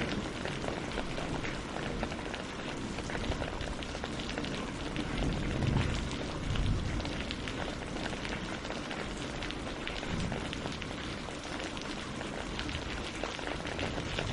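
Steady rain falling on tree leaves and lake water, a dense patter of drops, with a couple of brief low swells in the middle.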